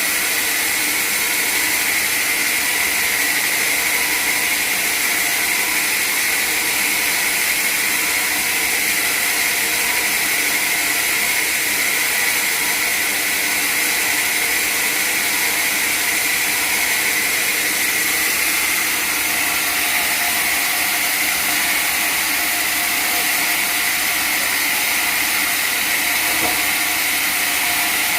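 Sawmill machinery running steadily: a continuous hiss with a high whine, unchanging throughout.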